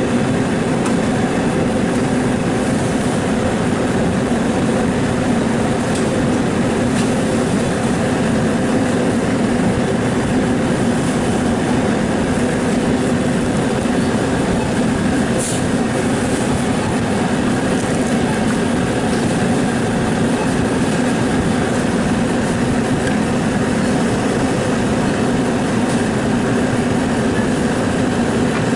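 A machine running steadily with a constant low hum and a rushing drone, with a few faint ticks on top.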